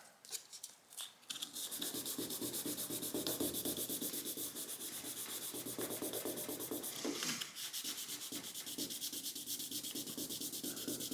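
1000-grit sandpaper wrapped on a paint stick rubbing back and forth over a car's clear coat in quick, even strokes, levelling out a paint run. The strokes start about a second and a half in, with one louder scrape around the middle.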